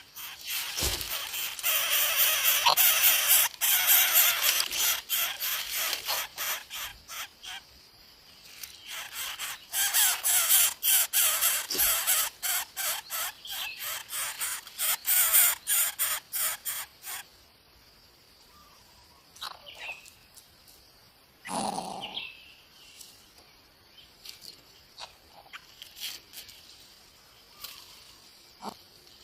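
Harsh, raspy calls and rustling from a coucal nest, in two long bouts over the first seventeen seconds, then quieter with a short louder call a little past the twenty-second mark.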